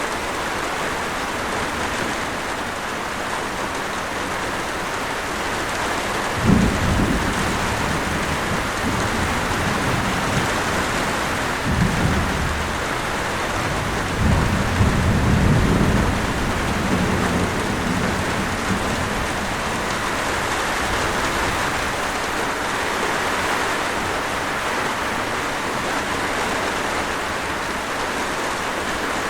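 Steady heavy rainfall with rumbles of thunder: a sudden low rumble about six seconds in, more around twelve and fifteen seconds in, dying away a few seconds later while the rain continues.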